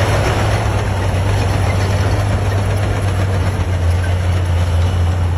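Heavy truck's diesel engine running steadily with a deep low hum.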